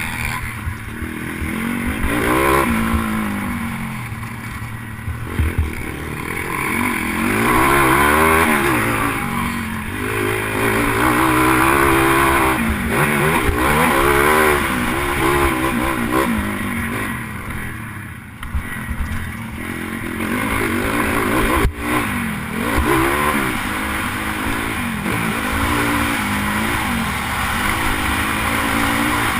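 Pitbike engine racing on a motocross track, revving hard and dropping off again and again, its pitch rising and falling with each burst of throttle. A sharp knock about two-thirds of the way through.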